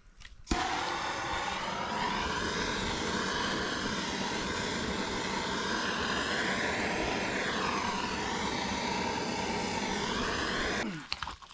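A power saw's motor running under load for about ten seconds while cutting the water line pipe. Its pitch dips and recovers a few times as it bites, and it starts and stops suddenly.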